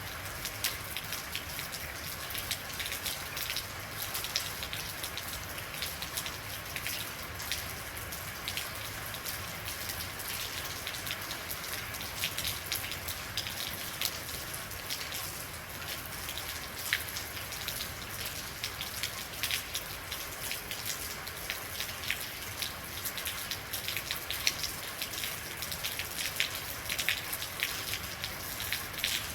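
Steady rain falling, with many individual drops pattering and ticking on hard surfaces.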